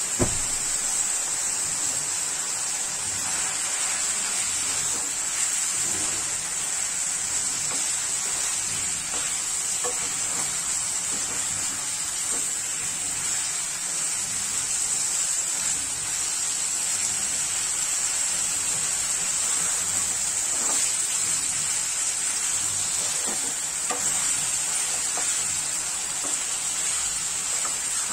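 Chicken pieces with chilli paste sizzling steadily in hot oil in a non-stick kadai, with a wooden spatula stirring and scraping through them.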